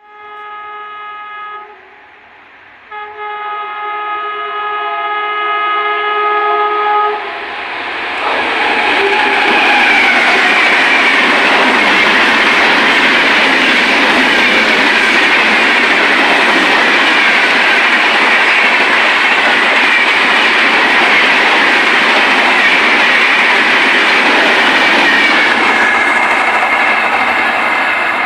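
Indian Railways express train sounding its multi-tone horn twice, a short blast and then one of about four seconds, as it approaches. It then passes at about 130 km/h with a loud, steady rush of wheels on rails and clickety-clack, which eases near the end.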